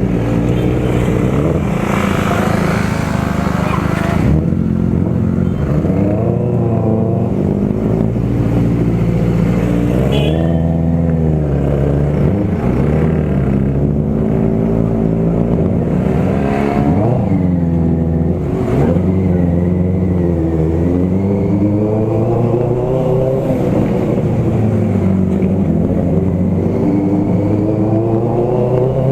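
Motorcycle engines running under way, the pitch rising and falling again and again as the rider accelerates, shifts gears and backs off.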